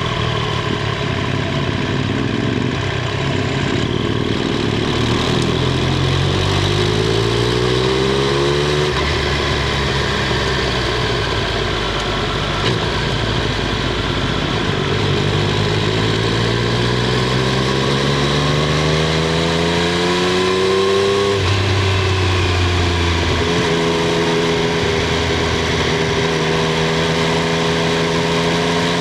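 Triumph Street Triple 765 R's inline three-cylinder engine and exhaust under way, heard from under the seat. The revs climb steadily twice, over a few seconds each time, about five and fifteen seconds in, and drop back after each climb. Otherwise the engine note holds fairly steady.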